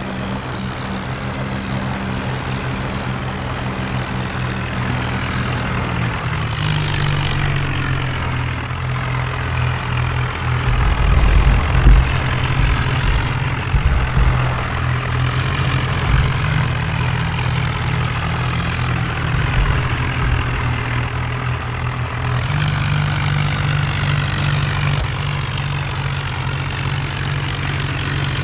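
Tractor engine running steadily, its pitch stepping up about six seconds in and dropping back a little past the twenty-second mark, with heavy low thuds in the middle.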